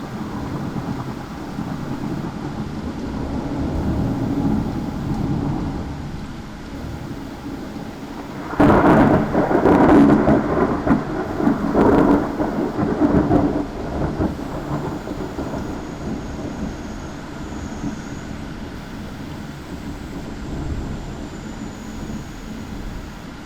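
Heavy thunderstorm: steady rain and low rumbling, then a sudden loud thunderclap about eight seconds in that rolls on in several peaks for some five seconds before fading back into the rain.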